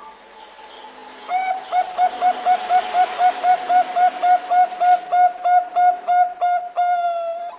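Zebra dove (Thai perkutut bangkok) song: a rapid run of short cooing notes on one pitch, about four a second, ending in one longer held note.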